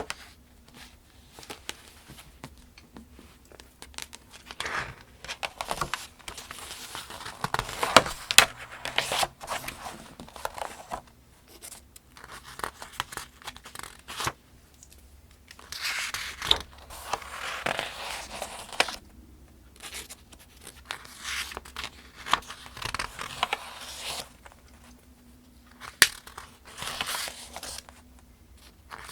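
Paper pages of the Farmers' Almanac being turned by hand, a rustling turn every few seconds with short quiet gaps between. A few turns end in a sharp paper snap.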